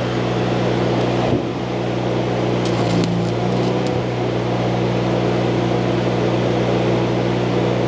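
Stick welding arc crackling and sizzling steadily as a rod burns, over the steady drone of the engine-driven welding machine.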